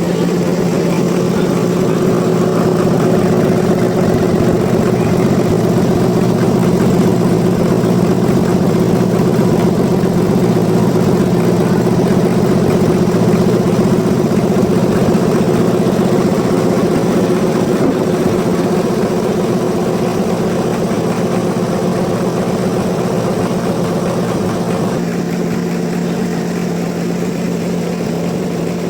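Sawmill machinery engine running steadily at a constant pitch, easing slightly in level near the end.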